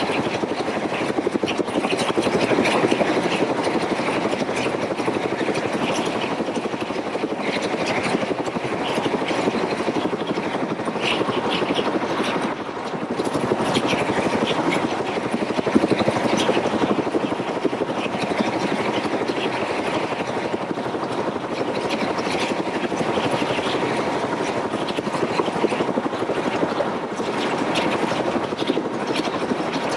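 Helicopter in flight, a loud, steady noise that holds without let-up.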